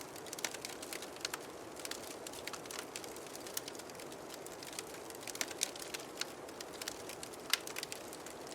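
Wood fire crackling in a fireplace: irregular sharp pops and snaps, several a second, over a steady soft hiss, with one louder pop near the end.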